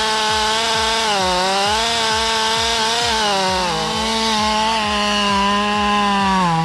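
Chainsaw running at high revs, cutting into a large maple. Its pitch dips briefly now and then as the bar bites under load.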